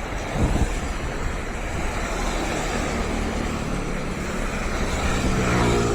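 Road traffic in stormy monsoon weather: a steady hiss of wind and rain, a brief low thump about half a second in, and a vehicle's engine passing close near the end.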